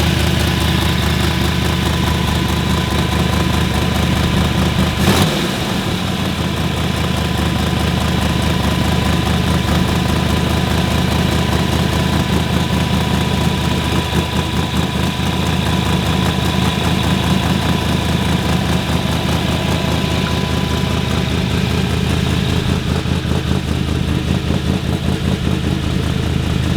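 Drift truck's engine idling steadily, run during a cool-down so the coolant circulates through the block. A single sharp knock sounds about five seconds in.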